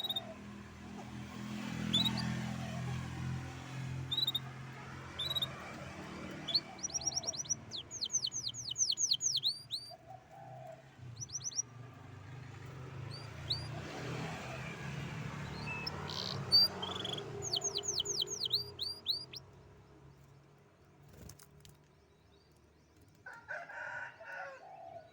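Canary singing: scattered short chirps and two fast trills of quickly repeated falling notes, over a low rumble of passing traffic.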